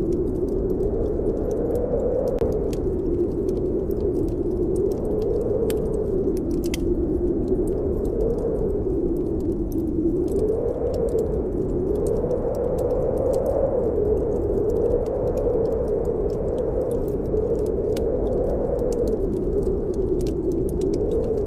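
Snowstorm wind howling steadily, its pitch slowly rising and falling, with scattered small crackles of a wood fire burning in a fireplace.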